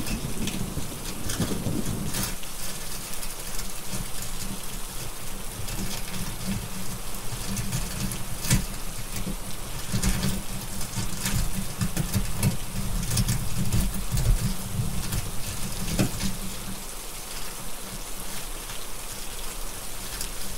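Steady rain with scattered sharp crackles and pops from a fireplace. A low thunder rumble at the start fades out about two seconds in.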